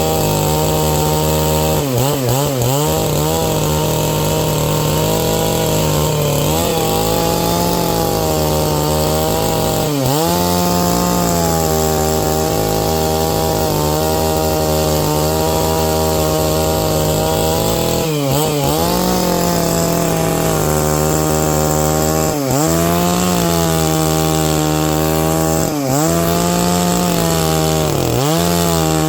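Stihl MS 660 two-stroke chainsaw running at full throttle while rip-cutting a pine log lengthwise. Its steady high engine note dips briefly about five times and picks straight back up, as the chain loads in the cut.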